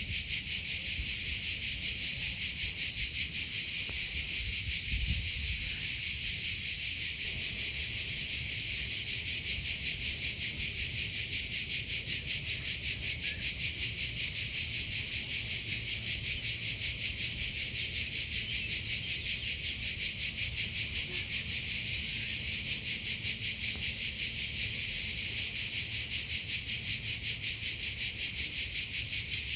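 Cricket chirping in a steady, fast, even rhythm, a high-pitched song that never breaks.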